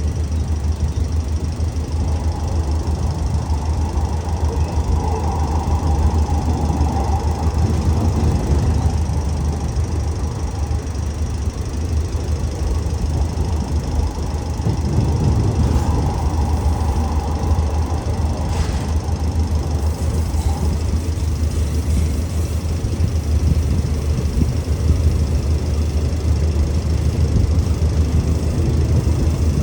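Diesel train running with a steady low rumble. A high-pitched squeal rises over it twice, for several seconds each time: about two seconds in and again around sixteen seconds in.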